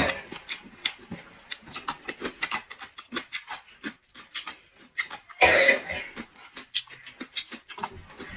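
Close-miked mouth eating sounds: a quick run of wet chewing clicks and lip smacks. About five and a half seconds in there is a louder, breathy burst, like a sharp inhale or slurp.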